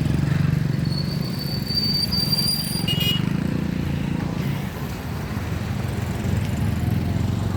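Road vehicle engine running steadily with traffic noise, and a short high-pitched beep about three seconds in.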